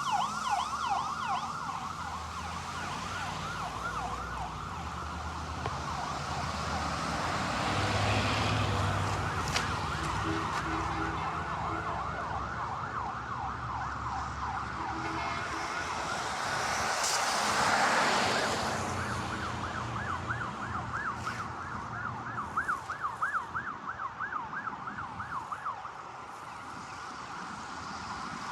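Fire rescue truck's electronic siren sounding a fast yelp, about five rising sweeps a second, with engine and road noise swelling about two-thirds of the way in as it passes. The siren fades near the end.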